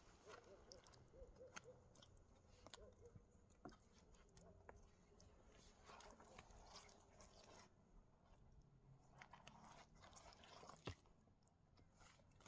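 Near silence, with faint scattered clicks and one sharper tick near the end.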